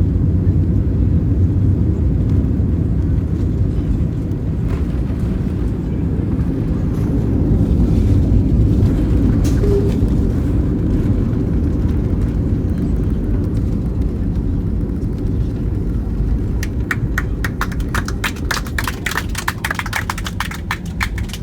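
Airliner cabin noise: a steady low rumble that eases slightly toward the end. Near the end comes a rapid series of sharp clicks.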